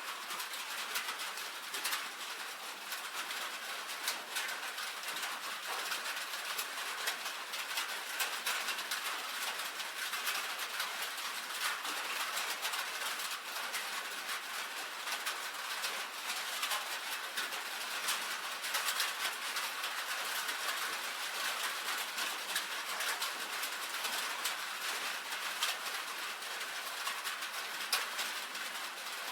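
Rain falling steadily on a tin roof: a constant hiss thick with the ticks of individual drops striking the metal.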